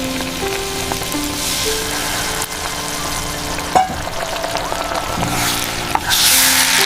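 Food sizzling as it fries in a pan, a steady hiss that swells about a second in and again near the end, with a single sharp click about four seconds in. A slow melody of held notes plays underneath.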